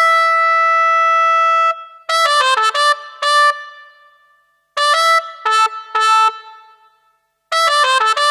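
Yamaha SY77 synthesizer playing a brass-like patch. It opens on a chord held for under two seconds, then plays short bursts of quick detached notes, each dying away into a brief pause.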